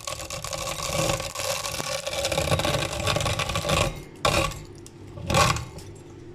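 Meat grinder motor running steadily while grinding dry macaroni, with a noisy grating rattle over the hum. It stops a little under four seconds in, followed by two short, loud noises.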